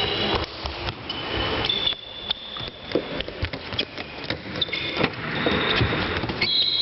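Floorball play in a sports hall: plastic sticks and ball clacking in irregular sharp knocks, with high squeaks lasting up to about a second.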